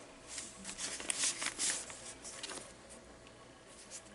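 Paper pages and tags of a handmade junk journal being handled and turned, rustling in a run of short bursts over the first two and a half seconds, then quieter.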